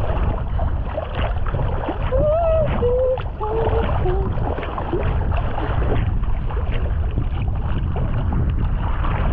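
Sea water sloshing and splashing around a camera at the surface, with a dense low rumble of water and wind on the microphone. A few short muffled, wavering voice-like sounds come about two to four seconds in.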